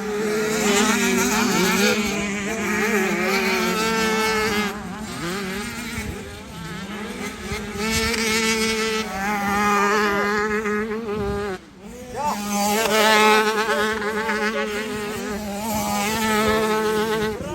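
Several small 65cc two-stroke motocross bikes running together, their engines buzzing and revving up and down over one another. The sound dips briefly about eleven and a half seconds in.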